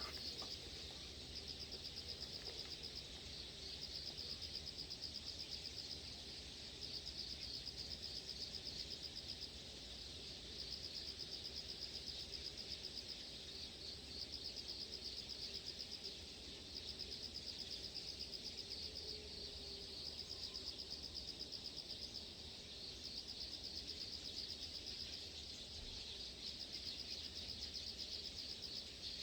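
Insects trilling in a high, fast-pulsed buzz, in bouts of a few seconds broken by short pauses, over a steady low rumble.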